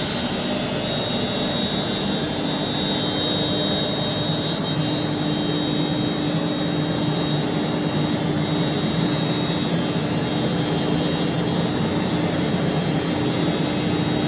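CNC machine running: a steady mechanical drone with a high whine, joined by a low steady hum that comes in about two seconds in and grows stronger about five seconds in.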